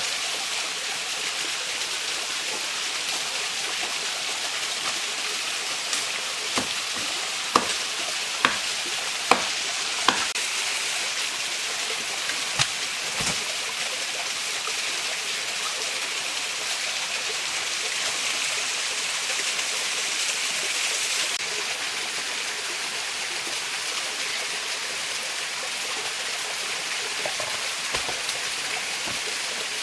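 Steady rushing hiss of a mountain stream, with a run of sharp snaps and clicks in the first half.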